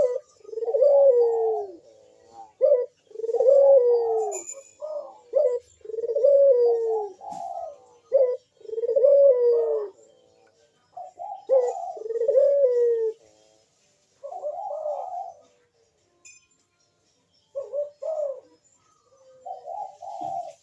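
A puter dove (Indonesian cage collared dove) cooing repeatedly: a run of deep coos, each about a second long and falling at the end, with a short pause about three-quarters of the way through. It is the loud, steady 'manggung' cooing of a male in breeding condition.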